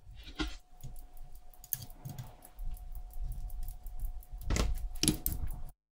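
Light clicks, taps and rustling of small watch parts and tools being handled on a workbench, over a faint steady tone. Two louder knocks come near the end, then the sound cuts off abruptly.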